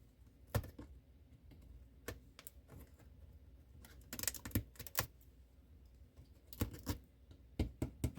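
Irregular light clicks and taps from hand work at a trailer's inside wall, with small clusters about halfway through and near the end, as an obstruction in the wall that turns out to be metal is probed.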